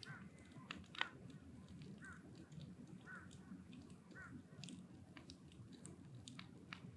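Wood fire crackling in a drum can with scattered small pops and one sharper snap about a second in. A crow caws four times, about a second apart, in the first half.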